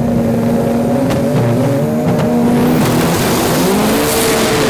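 Drag-racing car engine running at high revs, with a rush of noise building from about halfway through and the engine pitch stepping up near the end.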